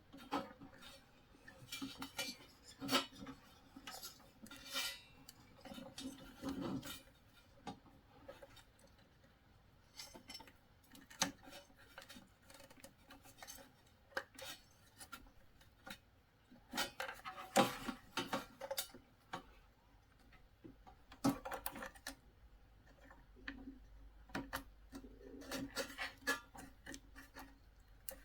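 Irregular small clicks and light clatter of wiring connectors being handled and pushed back into their sockets on a diesel heater's control board.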